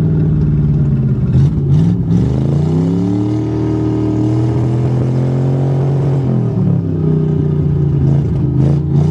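Pontiac's carbureted engine running cold with no choke: it idles, is revved up for about three seconds, then drops back to a steady idle.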